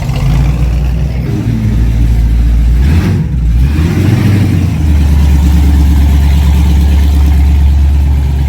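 Car engine running close by with a deep low rumble, revving briefly about three seconds in, then settling into a steady low drone.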